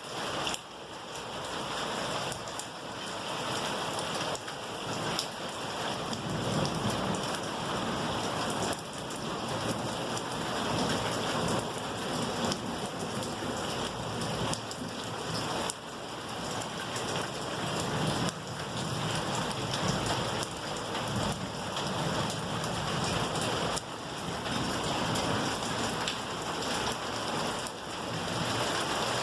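Steady rain falling, with many individual drops striking nearby surfaces.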